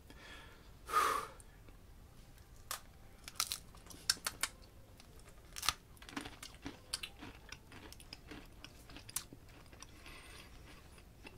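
Crunching and chewing of a thick, dry ration cracker with a crouton-like texture. It gives a scattered run of sharp, crisp crunches as it is bitten and chewed.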